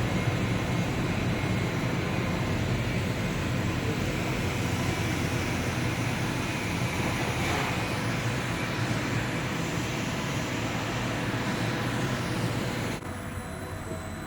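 20 kW industrial microwave drying machine running: a steady hum with fan-like noise. The level drops suddenly about thirteen seconds in.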